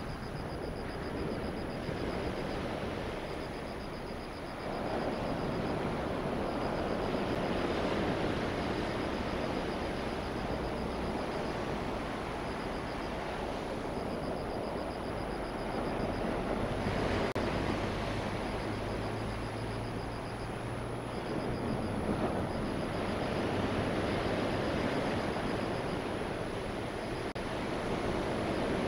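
Distant rumble of a passing passenger train blended with the noise of surf on a stony beach, swelling and easing every few seconds, with a low steady hum near the middle.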